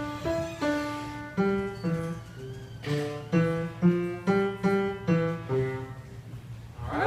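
A child playing a simple melody on the piano, one note at a time at about two to three notes a second, with lower notes joining from about a second and a half in. The playing stops about six seconds in.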